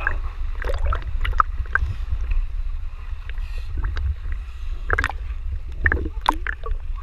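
Wading through shallow stream water: scattered splashes and knocks over a steady low rumble.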